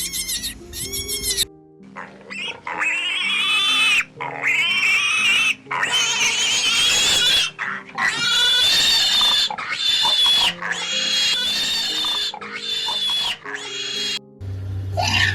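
Pig squealing over and over, a string of drawn-out squeals about a second each with short breaks, over background music.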